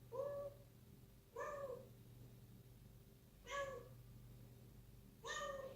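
Young kitten meowing four times, short calls about a second or two apart.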